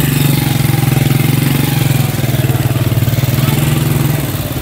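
A motor vehicle engine running steadily close by with a low, even hum, easing off near the end.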